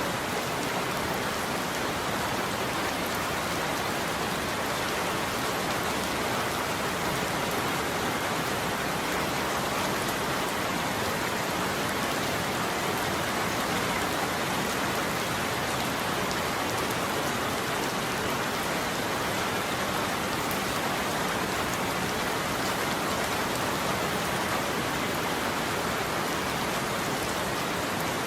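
Steady heavy rain falling on a surface, an even hiss without thunder or changes.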